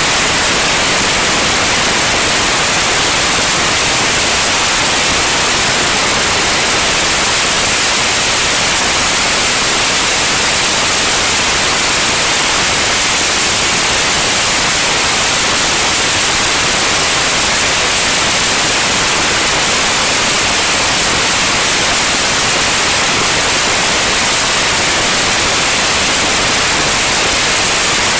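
Loud, steady static-like hiss that does not change, with no engine tone or other distinct sound standing out.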